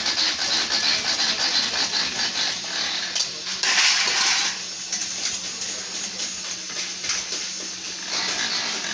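Sheet-metal workshop clatter: dense metal clinking and scraping, with a louder rush about four seconds in and a low steady hum through the second half.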